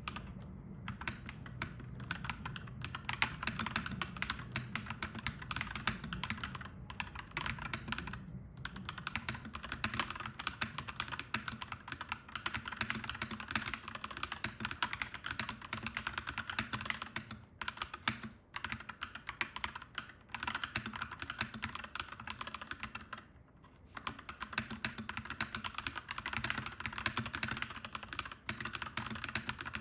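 Clacky mechanical keyboard being typed on in a fast, steady run of keystrokes, with a few brief pauses.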